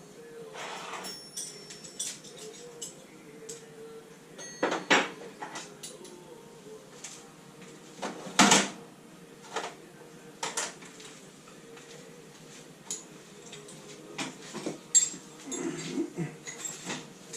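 Metal hand tools and car parts clinking and knocking at irregular intervals during engine removal work on a classic Mini, with a few louder knocks, the loudest about eight and a half seconds in, over a faint steady hum.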